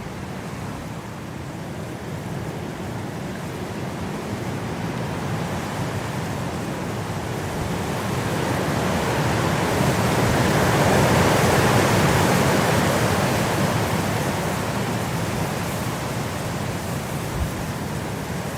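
Winter wind blowing, a steady rush that swells into a stronger gust about halfway through, then eases off again.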